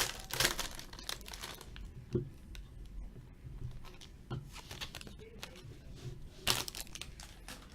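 Trading card pack wrapper being torn open and crinkled by hand, busiest in the first second and a half, then scattered handling clicks with a louder rustle near the end.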